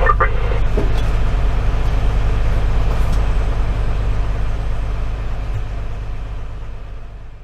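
A fire engine's Detroit Series 60 diesel running steadily with a low drone. It fades out over the last couple of seconds.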